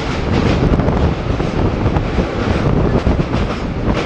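Rumble of steel wheels on rail as container freight wagons pass close alongside on the next track, with wind buffeting the microphone from the moving train. A few sharp clicks come near the end.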